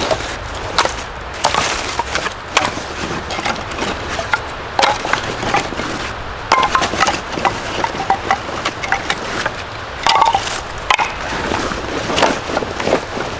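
Irregular clicks, knocks and light clinks of hard objects being handled and set down, a few with a short metallic ring.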